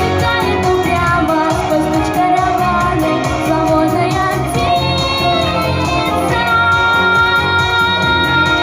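A girl's voice singing a pop song over an instrumental backing with a steady beat and held chords.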